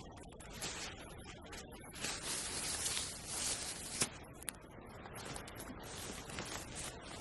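Scraping and rubbing noises in bursts, the longest lasting about two seconds, with a sharp click about four seconds in.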